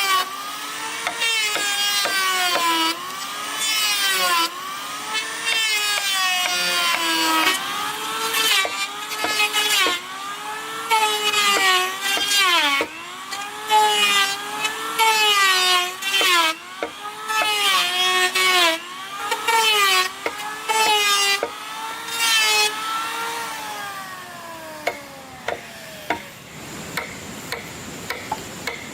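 Saw cutting through wood in steady back-and-forth strokes, about one a second, each stroke a pitched squeal that rises and falls, with clicks between strokes. The strokes weaken and stop near the end.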